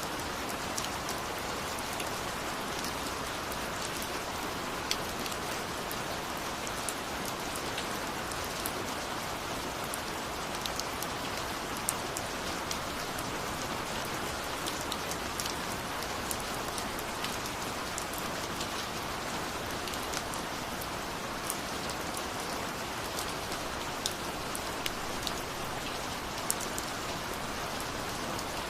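Steady rain falling, a dense even hiss with scattered sharper drops striking a surface.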